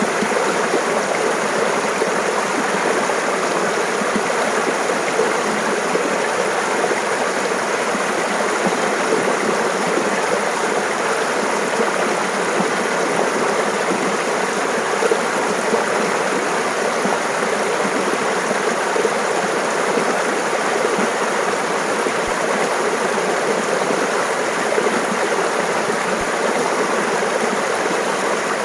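Mountain stream water running and babbling over rocks.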